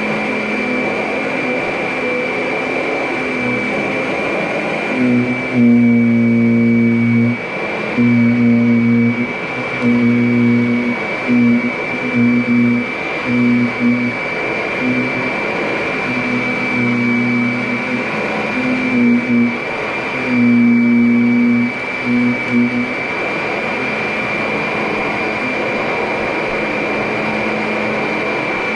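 Kirby Avalir upright vacuum cleaner running, with a steady high motor whine. A louder low hum cuts in and out in repeated bursts, some about a second apart, through the middle of the stretch.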